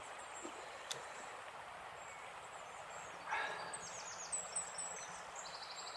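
Quiet riverside ambience with a steady faint hiss; a short soft rush of noise comes about three seconds in, followed by small birds chirping in quick, high, repeated notes.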